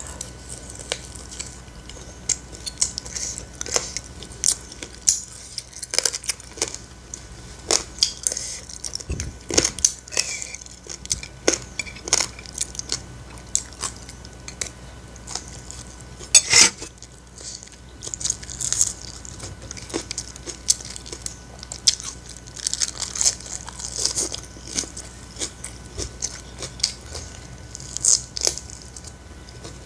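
Close-miked eating sounds: a steady run of chewing, crunching and wet mouth clicks as fried chicken and corn fried rice are bitten and chewed. One sharp click about halfway through is the loudest sound.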